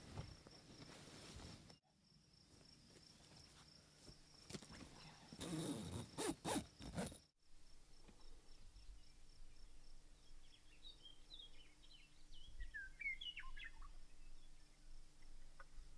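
Outdoor field ambience, with rustling and stepping at the start and a short run of loud, raspy strokes about halfway through. In the second half, small songbirds chirp in quick high notes over a faint steady insect hum.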